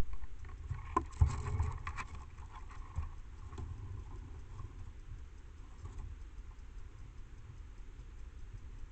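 A few sharp clicks and knocks with light rustling in the first three seconds, the loudest about a second in, over a steady low rumble that continues alone afterwards.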